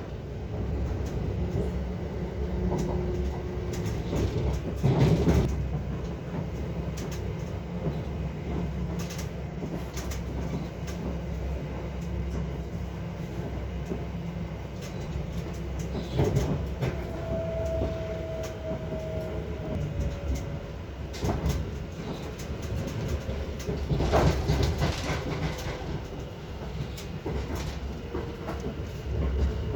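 Passenger train rolling along the rails as it slows on the approach to a station, with a steady low rumble, several sharp knocks from the wheels over track joints and points, and a few brief faint whines.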